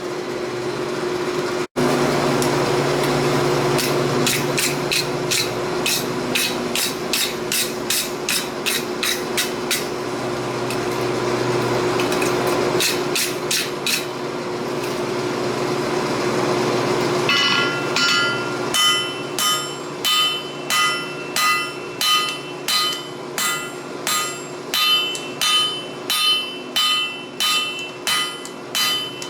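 Hand hammer forging a hot steel axe head on an anvil, about two to three blows a second, over a steady hum. From about halfway on, each blow rings with clear metallic tones.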